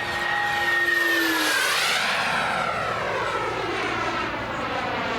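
Radio-controlled model airplane flying a fast, low pass: its engine tone drops in pitch as it goes by about two seconds in, then carries on steadily at the lower pitch as it moves away.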